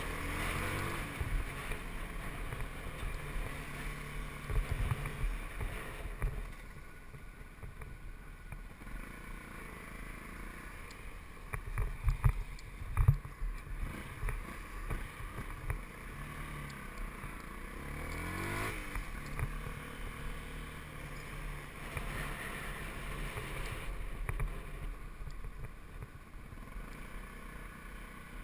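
Yamaha WR125's 125cc single-cylinder four-stroke engine running as the motorcycle is ridden, with road and wind noise. The engine pitch shifts through the ride and rises about two-thirds of the way in as the bike accelerates. A few sharp knocks come about twelve seconds in.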